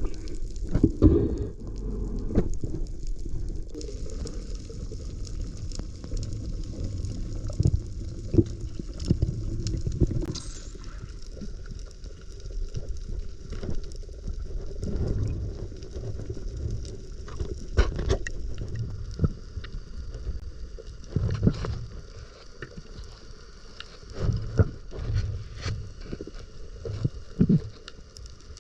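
Muffled sloshing and churning of seawater around a camera in the sea, with irregular knocks and thumps.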